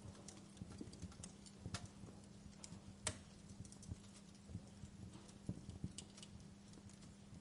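Wood fire in a fireplace crackling: irregular sharp pops and snaps, the loudest about three seconds in, over a faint steady low hum.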